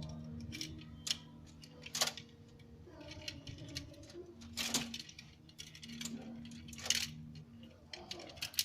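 Scattered sharp clicks and short metallic rattles, a few much louder than the rest, from a lory clambering about during its acrobatics, over a steady low hum.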